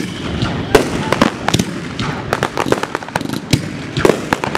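Aerial fireworks going off in a rapid, irregular string of bangs and pops.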